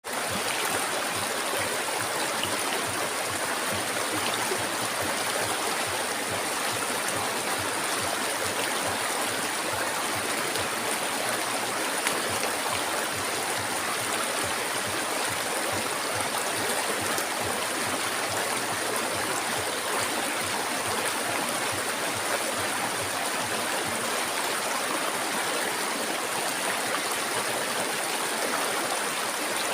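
River water flowing steadily over rocks, an even, continuous rushing with a steady high hiss above it.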